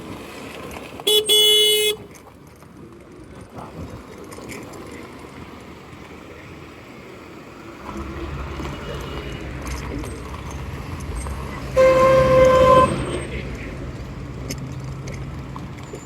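Vehicle horns honking in road traffic: two separate blasts of about a second each, roughly ten seconds apart, the second at a slightly higher pitch. From about eight seconds in, the low steady drone of a nearby engine runs under the traffic noise.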